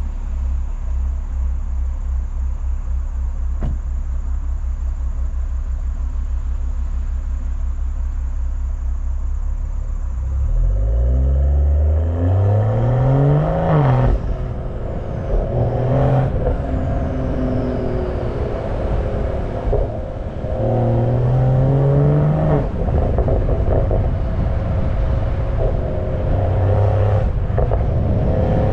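BMW M340i's turbocharged 3.0-litre B58 inline-six idling steadily, then pulling away about ten seconds in. The revs climb and drop back at gear changes twice, and it settles into steady running.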